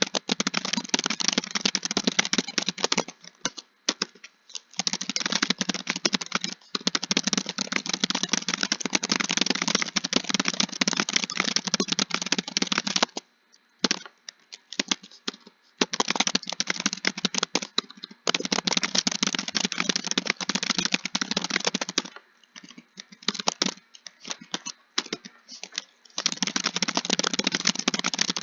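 Fast, continuous typing on a keyboard: a dense run of key clicks, broken by short pauses about 4 seconds in, around 13 to 16 seconds, and a stretch of scattered keystrokes around 22 to 26 seconds.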